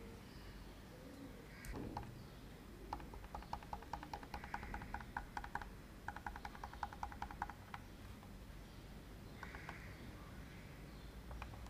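Faint bird calling in the background: a rapid trill of short chirps, about ten a second, in two runs between about three and seven and a half seconds in.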